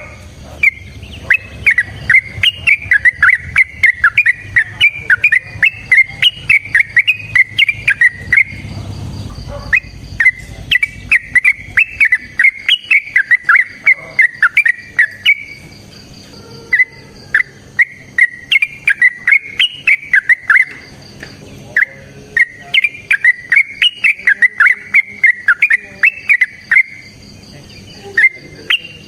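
Yellow-vented bulbul (trucukan) singing its long rapid-fire fighting song: phrases of quick, bubbling chirps, each several seconds long, broken by short pauses.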